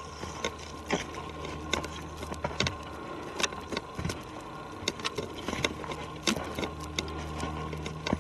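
Footsteps on a forest trail, an irregular series of sharp crunches and knocks about one to two a second, over the steady low drone of a distant airplane.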